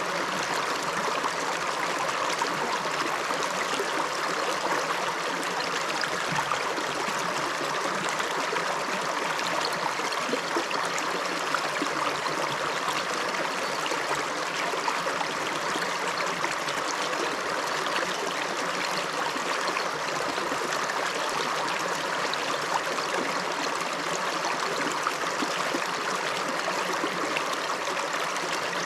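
Shallow river flowing over rocks, a steady rushing and babbling of water with no breaks.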